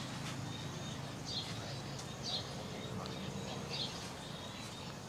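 A bird chirping: short high calls that each slide down in pitch, about four in a few seconds, over a faint steady low hum.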